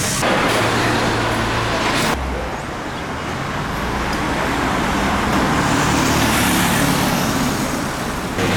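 Steady road traffic noise, with abrupt changes in its sound about a quarter second in and again about two seconds in.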